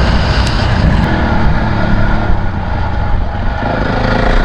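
A motor vehicle engine running steadily with a heavy, even rumble.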